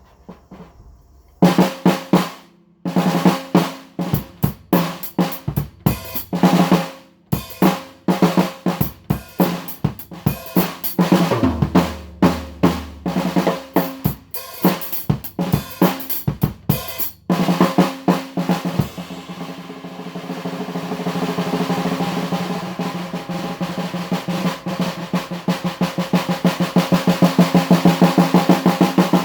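A 14 x 8 inch 3D-printed marble PLA snare drum played with sticks, starting about a second and a half in: patterns of sharp single strokes and accents, with a few deeper thumps near the middle. Later it goes into a long roll that builds steadily louder toward the end.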